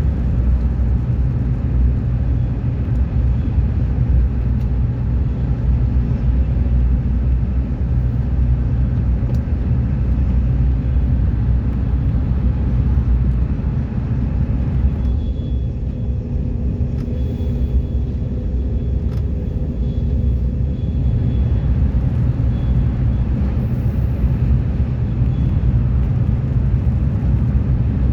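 Train running with a steady low rumble. From about 15 to 21 seconds in, the hiss above the rumble thins out and a faint high whine shows through.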